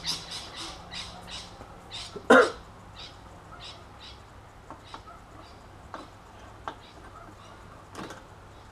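A bird chirping over and over, about three short high chirps a second, fading after the first couple of seconds. One loud, short sound comes about two seconds in, and a few light clicks follow later.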